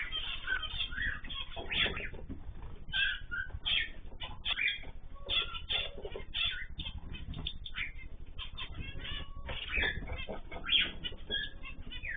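Several small cage birds chirping and calling, a dense run of short, quick chirps overlapping one another.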